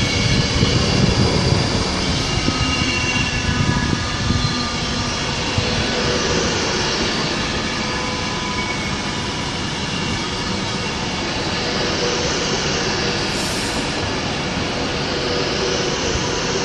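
Class 390 Pendolino electric train at the platform, its equipment giving a steady hum with several whining tones, heavier in the low end for the first few seconds.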